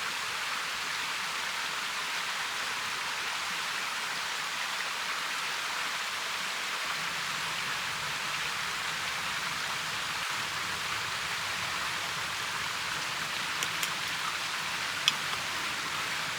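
Mountain stream rushing: a steady hiss of flowing water, with a few faint sharp clicks near the end.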